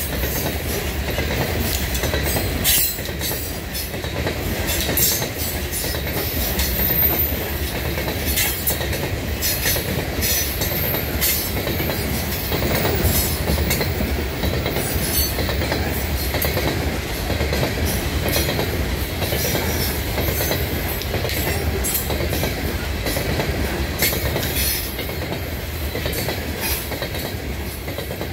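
Loaded coal train's hopper cars rolling past: a steady rumble of steel wheels on the rails, with irregular clicks and clacks as the wheels pass over joints.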